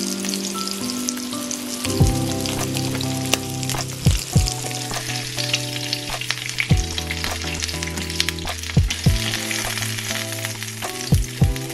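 Oyster and kamokamo fritters sizzling in shallow oil in a nonstick frying pan. A metal spatula and fork knock against the pan several times as the fritters are lifted and turned over.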